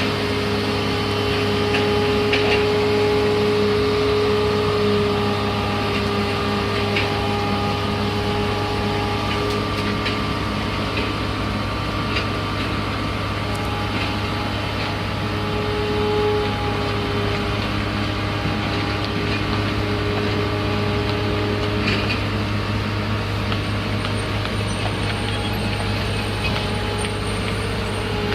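Heavy engine of a construction machine running steadily, with a constant low hum and a few faint clicks and knocks.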